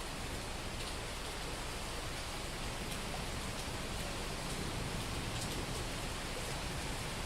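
Heavy rain falling steadily on a street: a dense, even hiss with a few faint drop ticks.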